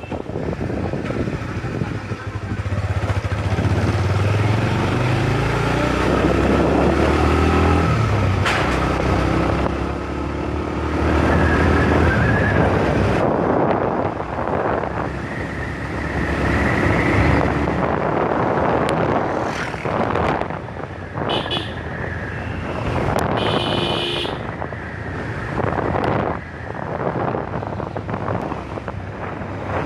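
Motorcycle ride through road traffic: engine running, its pitch rising and falling with the throttle, over a steady rush of road and wind noise. Two short vehicle horn toots come about two-thirds of the way through.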